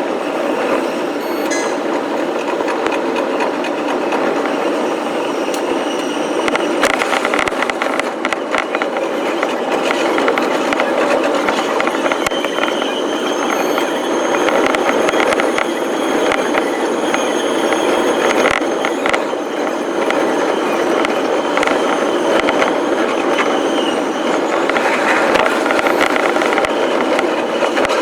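Commuter electric train running on the rails: a steady rumble with a dense run of rapid clicks from the wheels over the track.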